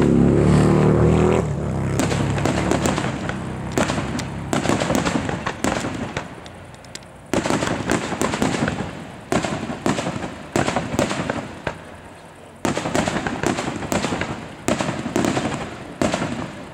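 Aerial firework shells bursting, a big rumbling boom at the start, then a quick run of sharp bangs, each trailing off in crackle and echo.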